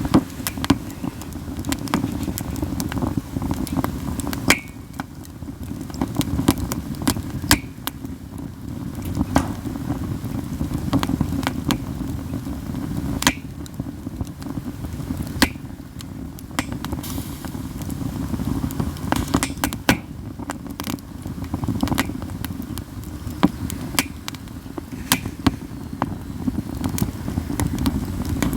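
Katsura-wood campfire burning, crackling continually with frequent sharp pops and a few loud snaps, over a steady low rumble.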